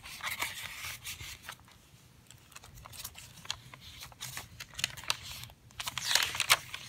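Paper pages and cards of a junk journal being handled and turned: crisp rustling with light clicks and scrapes, quietest about two seconds in and busiest near the end.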